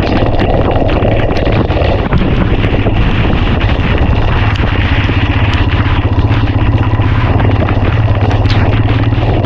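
Royal Enfield Himalayan's single-cylinder engine running at a steady cruise, under heavy wind rush on the microphone, with scattered ticks of rain hitting it.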